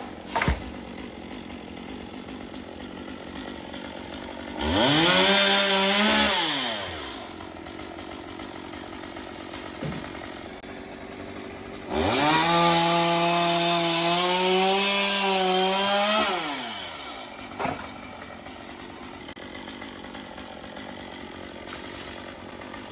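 Chainsaw cutting wood: it is revved up twice, once for a couple of seconds and later for about four seconds, its engine pitch climbing to full speed and then falling away, with the saw running low in between. A few sharp knocks near the start and after the second cut.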